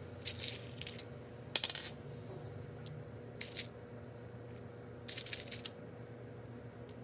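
Seashells clinking and rattling against each other as they are handled and set around a potted succulent, in four short bursts, the loudest about a second and a half in.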